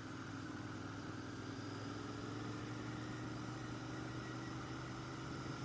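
Royal Enfield GT 650's parallel-twin engine running at a steady road speed under a rider backing off through a curve, a low even drone with its pitch creeping slightly up.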